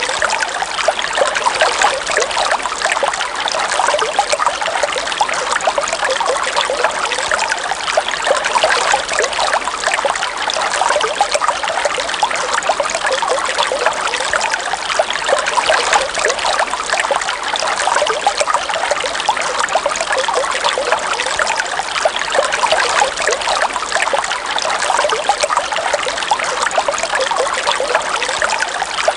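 River water running steadily, a dense unbroken flow with no pauses.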